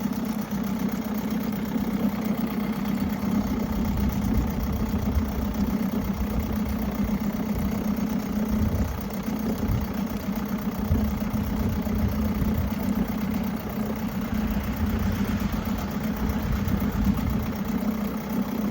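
1980s Mercury 7.5 hp long-shaft two-stroke outboard idling steadily, its fuel line unplugged so it is running on the fuel left in the motor.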